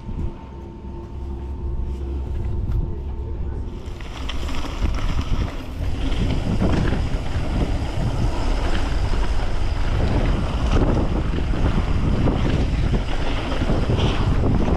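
Wind rushing over the microphone and tyre noise from a mountain bike on a downhill trail. It opens up about four seconds in and gets louder again around ten seconds as speed builds.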